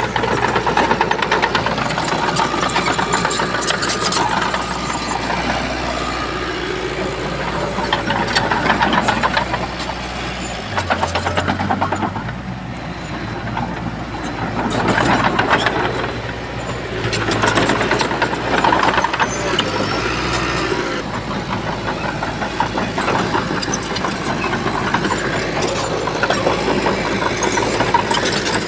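Heavy diesel engine of a Shantui bulldozer working, its note swelling and easing every few seconds as the load changes.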